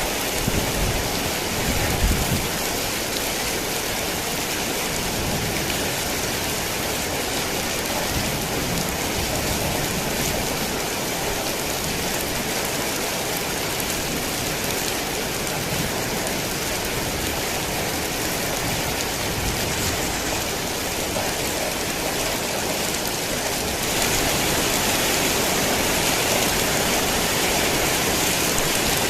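Heavy rain falling steadily, an even hiss of drops on surfaces, with a low rumble in the first couple of seconds. It gets louder and brighter about 24 seconds in.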